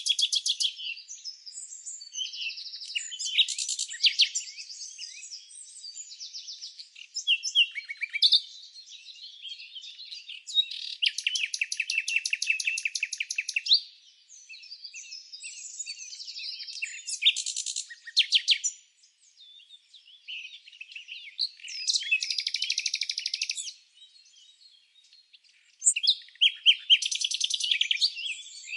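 Songbirds singing, several overlapping high-pitched songs. Rapid trills of one to three seconds recur every few seconds between shorter chirping phrases.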